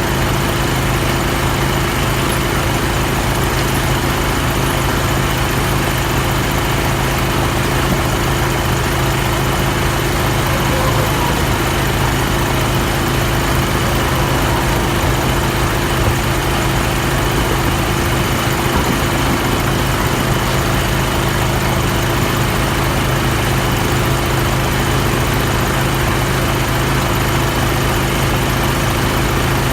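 An engine running steadily at a constant idle, with a loud, even low hum.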